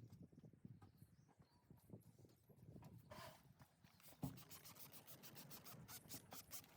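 Near silence with faint scattered clicks and knocks, including a quick run of light ticks near the end.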